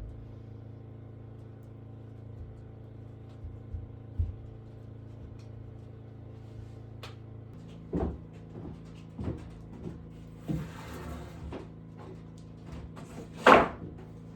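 Scattered knocks and thumps of objects being handled and set down, with a brief scrape, the loudest thump near the end, over a steady low hum.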